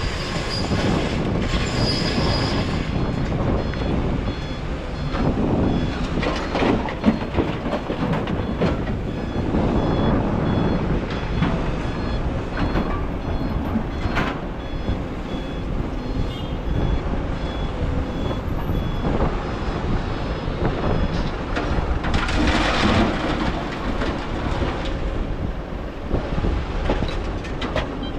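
Kobelco excavator working in sand, its diesel engine and hydraulics running steadily under load, with louder noisy surges near the start and about 22 seconds in. A backup alarm beeps at an even pace through the middle.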